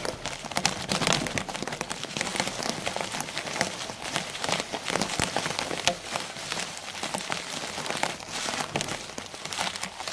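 Dense, continuous crackling and rattling of a bicycle ridden over a rough, bumpy trail: tyres crunching on the ground and the bike and camera mount jolting.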